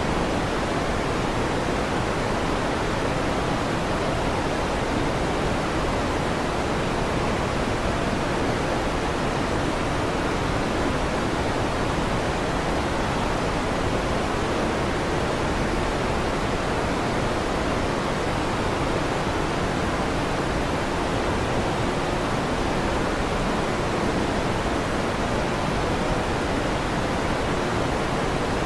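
Electric fan running: a steady, even rushing noise that never changes, with no thunder claps.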